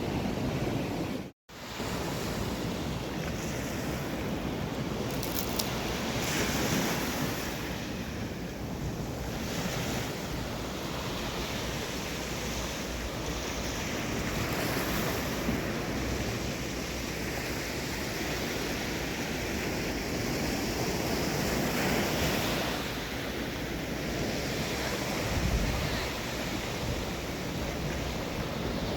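Sea surf breaking and washing on the shore in strong wind, the wave noise swelling and easing, with wind buffeting the microphone. The sound cuts out for a moment about a second in.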